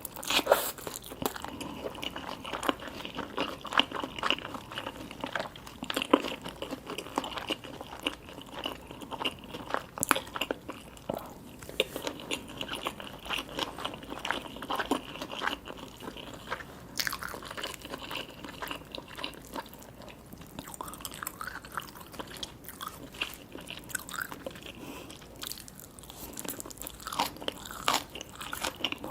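Close-miked eating: a person biting into and chewing crunchy food, with many sharp, irregular crunches and crackles.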